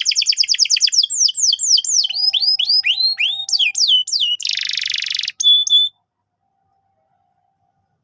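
Domestic canary singing: a fast trill, then a run of whistled notes that each sweep downward, about three a second, a short harsh roll, and one last brief note. After that the sound cuts off to dead silence about six seconds in.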